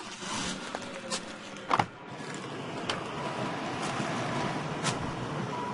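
Van engine running with its cooling fan blowing, a steady even rush, after a loud knock about two seconds in.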